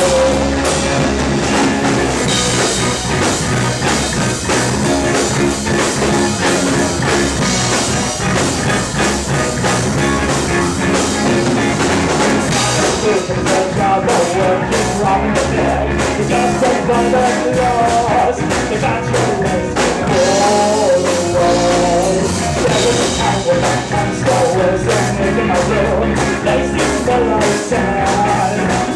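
Live rock band playing a song: drum kit, bass and electric guitars, with a wavering melodic lead line over the band in the second half.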